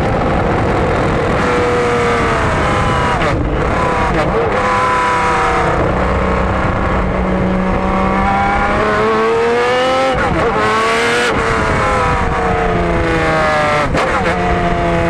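Jaguar XJR-12's V12 racing engine heard onboard at full throttle, its pitch climbing through each gear and dropping sharply at gear changes, several times over.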